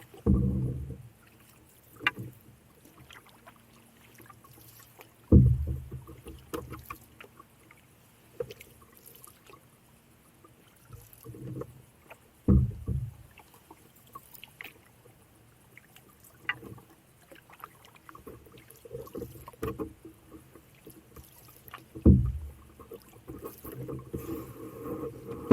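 Paddling a canoe: hollow knocks on the hull, four loud ones several seconds apart and a few softer ones, with quiet paddle and water sounds between.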